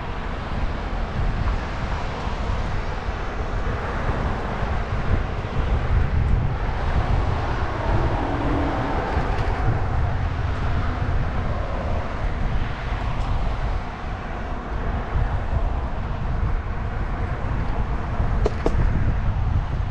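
Steady wind rush and buffeting on the microphone, with tyre and road noise, while riding an e-bike at speed.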